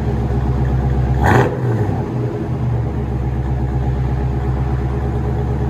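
1984 Chevrolet Corvette C4's 5.7-litre V8 idling through a new true dual exhaust with high-flow catalytic converters and Flowmaster Outlaw mufflers, a steady deep note. There is one brief sharp sound about a second in.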